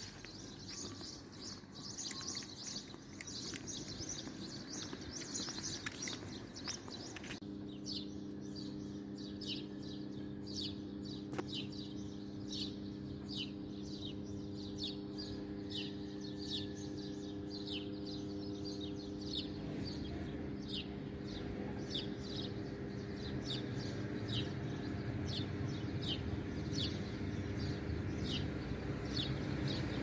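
Small birds chirping again and again in short high calls, about two a second. About seven seconds in a steady low hum starts abruptly beneath them and grows slowly louder.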